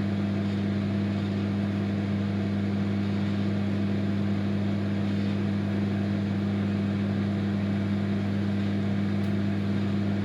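Microwave oven running with a steady electrical hum while the cake bakes.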